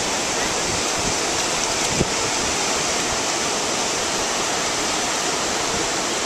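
Steady, unbroken noise of ocean surf washing in, mixed with wind, with a brief small knock about two seconds in.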